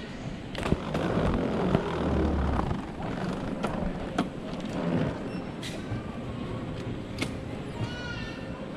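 Airport terminal hall ambience: a steady din with scattered clicks and knocks, a low rumble about two seconds in, and a brief voice near the end.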